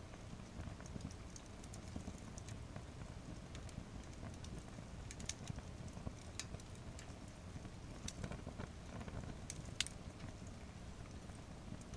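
Firewood burning in a fire pit stand: scattered sharp crackles and pops over a steady low rumble of the fire, with a sharper pop about ten seconds in.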